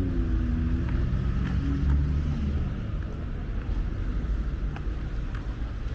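A motor vehicle passes on the street, its engine hum fading away within the first three seconds, over a steady low rumble of traffic and wind.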